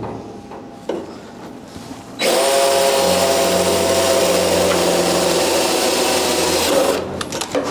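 Metalworking on the bus's steel floor structure: a loud, harsh, steady noise that starts abruptly about two seconds in and stops about five seconds later, after a couple of seconds of light clicks and taps.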